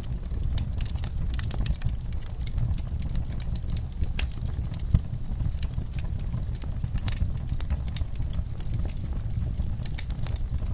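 Wood fire crackling in a fireplace: many quick, irregular crackles and pops over a steady low rumble of the flames, with one louder pop about five seconds in.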